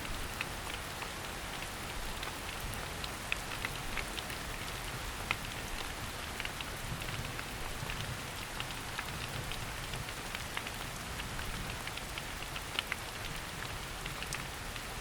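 Rain falling in a forest: a steady hiss of rainfall with many separate drops ticking close by, scattered irregularly throughout.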